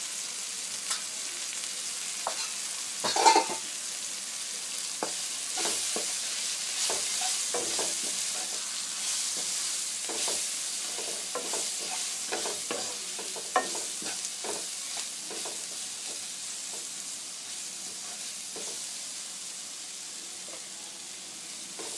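Onions, tomato and spices frying in a nonstick kadai with a steady sizzle, while a wooden spoon stirs and scrapes through them, clicking against the pan. A louder knock about three seconds in.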